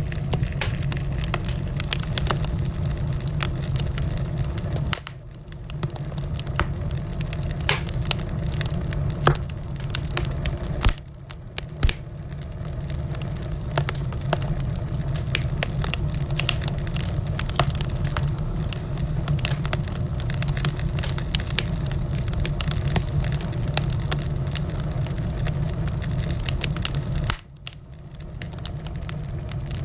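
Wood fire crackling in a fireplace: a steady low rumble of flames with frequent sharp pops and snaps. The sound drops away briefly three times, about five, eleven and twenty-seven seconds in.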